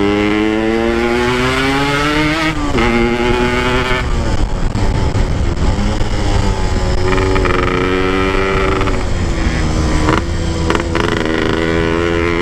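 Motorcycle engine under way, its pitch climbing as it revs through the gears, dropping at a shift about three seconds in and again near ten seconds, with low wind rumble on the microphone.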